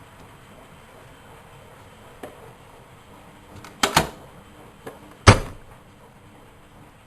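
A few clicks and knocks, then one loud, deeper thump a little past halfway: the door of a Miele Novotronic W120 front-loading washing machine being handled and shut.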